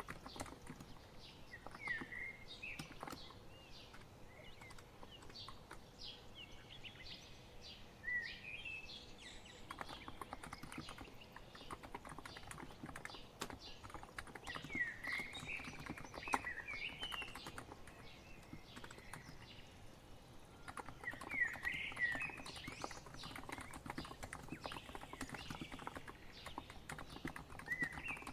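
Typing on a COX Empress electro-capacitive keyboard: a stream of soft key clicks that comes in denser runs and then thins out. Songbirds chirp in short rising and falling phrases throughout.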